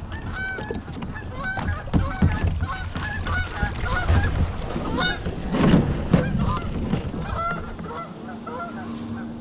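A flock of geese honking, with many short calls overlapping one another and a steady low rumble underneath.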